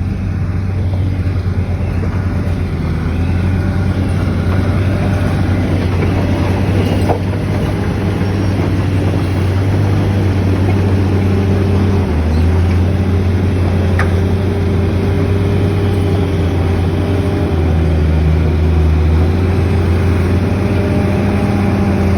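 An engine running steadily with a low hum, its pitch shifting slightly a couple of times, with a few faint clicks.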